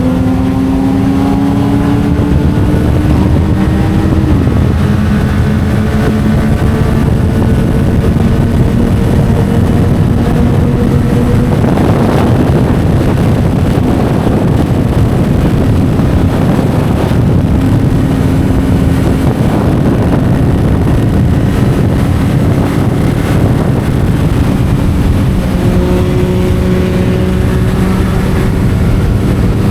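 Yamaha MT-07's 689 cc parallel-twin engine running through an Akrapovic titanium exhaust while riding. The revs climb slowly, drop sharply at a gear change about four seconds in, then hold fairly steady. From about twelve seconds the sound turns rougher and noisier, and the pitch steps again near the end.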